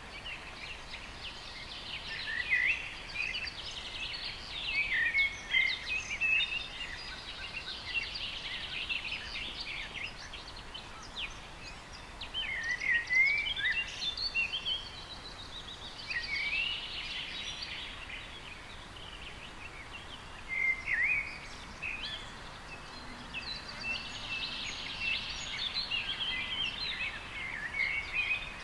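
Several songbirds chirping and trilling in bouts with short pauses, over a steady outdoor hiss.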